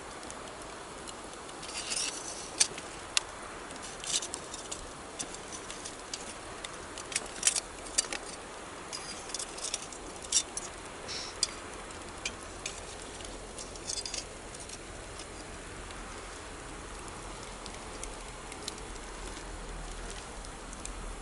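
Wood fire crackling, with many sharp pops and snaps that thin out after about two-thirds of the way through, over a steady rush of flowing river water.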